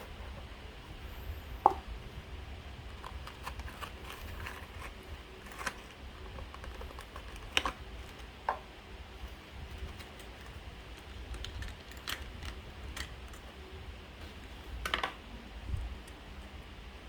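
Scattered small clicks and taps of a diecast model car's box and plastic packaging being handled and opened, over a low handling rumble. The sharpest click comes about two seconds in, with a few more around the middle and a quick cluster near the end.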